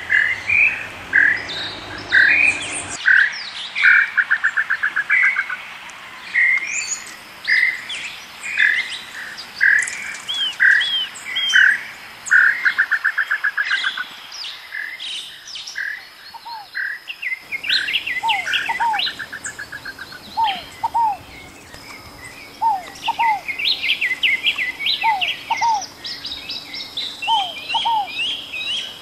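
Birds singing: repeated short chirps and buzzy trills from several birds, and in the second half a pair of lower down-slurred whistles repeated every second or two.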